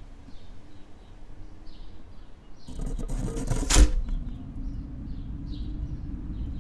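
Outdoor snowfall ambience: a low wind rumble, with a small bird chirping about twice a second. Near the middle, a second of rustling noise ends in one sharp knock, the loudest sound.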